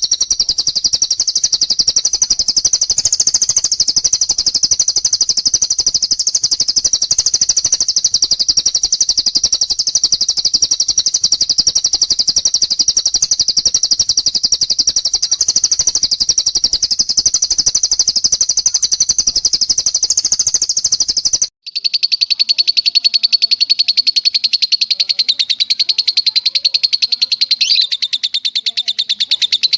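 Recorded songbird trills from a murai batu training track: a long, very rapid, high-pitched trill without a break. About two-thirds of the way through it cuts off abruptly and a lower trill takes over.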